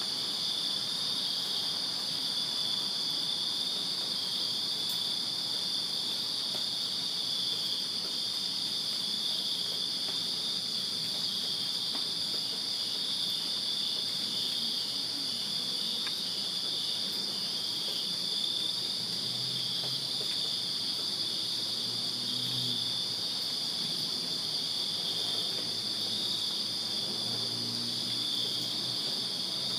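A steady chorus of many crickets chirping, a dense, unbroken high trilling at two close pitches.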